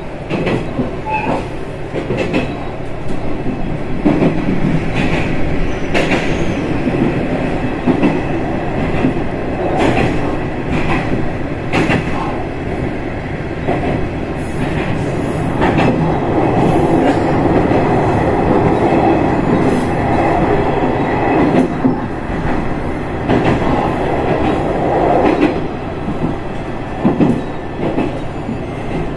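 Single diesel railcar running along jointed single track, heard from inside the car. Its wheels click over rail joints at irregular intervals above a steady running rumble. The running noise grows louder for several seconds around the middle while the train passes through a tunnel.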